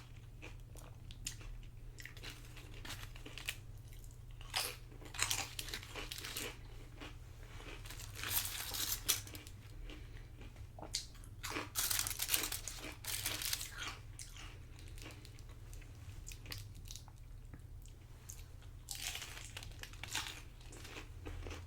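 Tortilla chips from loaded nachos crunching as a person bites and chews, in irregular bursts of loud crunching with quieter chewing between. A steady low hum runs underneath.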